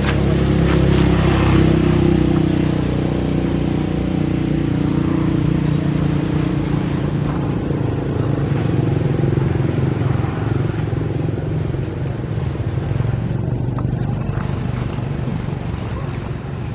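A motor engine running steadily, its pitch drifting slightly.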